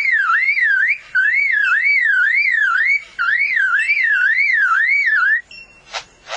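Male superb lyrebird mimicking a car alarm: a loud whistled siren that sweeps up and down about two and a half times a second, in three phrases with short breaks. It stops about five seconds in, and two sharp clicks follow near the end.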